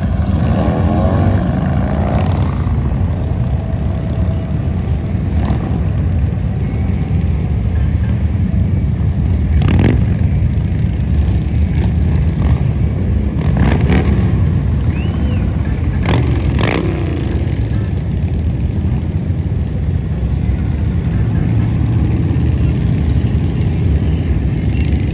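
A procession of motorcycles riding past, their engines running in a steady low rumble, with a few brief sharp knocks or clicks partway through.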